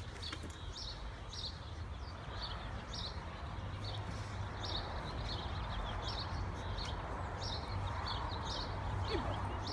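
Small birds chirping repeatedly in short, high notes over a steady low hum.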